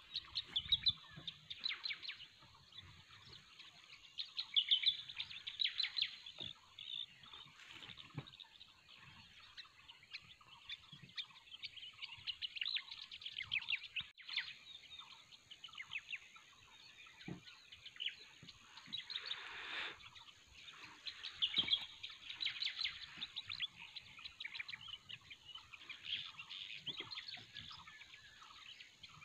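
Outdoor birdsong: several small birds chirping in fast, repeated trills that overlap, swelling into louder bunches every few seconds.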